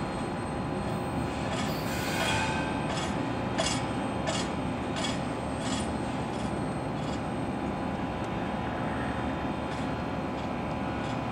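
Double-stack intermodal freight cars rolling away on the track: a steady rumble of steel wheels on rail, with a run of sharp clicks less than a second apart in the first half, fainter later as the train recedes.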